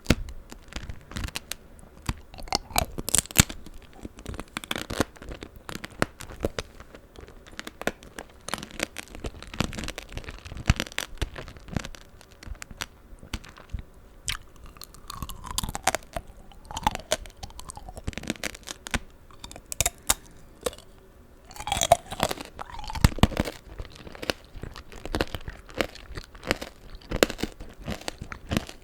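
Close-miked crunching and chewing of tanghulu: the hard sugar-candy shell on strawberries and green grapes cracking between the teeth, with wet, smacking chewing of the juicy fruit. Many sharp, irregular cracks follow one another.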